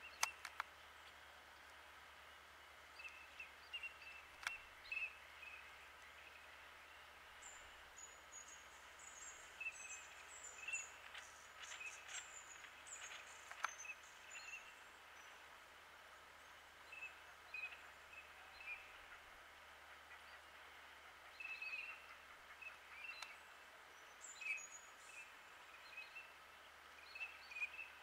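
Faint bird calls: short chirps at irregular intervals throughout, joined in the middle by a run of higher, quick twittering, over a steady quiet hiss. There are a few sharp clicks, one right at the start.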